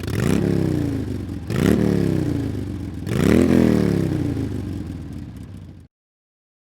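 A motorcycle engine revved hard three times. Each rev climbs quickly in pitch and then sinks slowly back down. The sound cuts off abruptly near the end.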